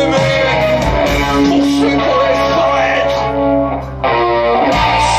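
Live rock band playing loud, with guitar to the fore; the music drops off briefly just before four seconds in, then the band comes straight back in.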